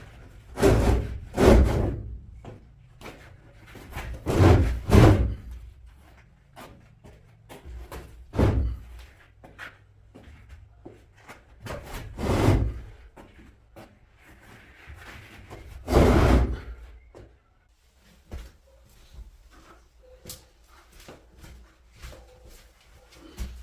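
A series of heavy knocks and scrapes, each about half a second long: two close together near the start, two more about four seconds in, then single ones at intervals, with small clicks and rubbing between them.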